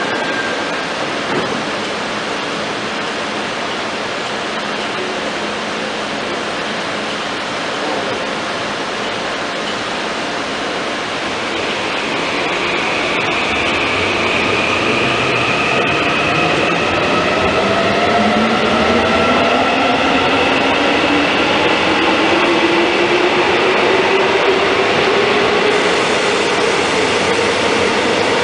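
Electric commuter train pulling out: a steady rumble and hiss, then from about halfway the traction motors whine in several tones that rise slowly in pitch as the train picks up speed.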